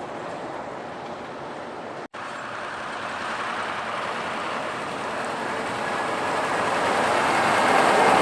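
Truck traffic: a steady rush of road and engine noise that grows louder over the last few seconds as a vehicle draws near, with a very brief cut-out about two seconds in.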